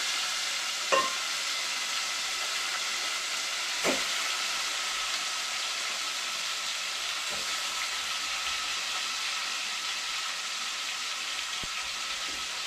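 Chicken pieces frying with onions and curry powder, just added to the pot: a steady sizzling hiss, with two light knocks about one and four seconds in.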